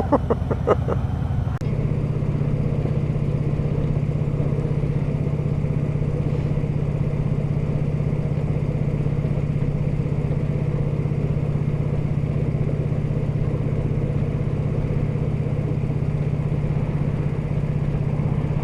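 Harley-Davidson big V-twin motorcycle engine running steadily while cruising, a low even drone that settles in about a second and a half in.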